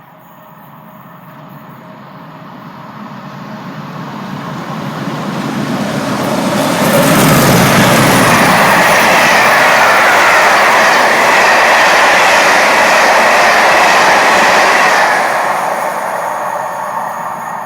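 Two Class 50 diesel locomotives with English Electric V16 engines running through the station at speed without stopping, absolutely thundering through. The sound builds for several seconds as they approach, is loudest for about eight seconds as they pass, then fades.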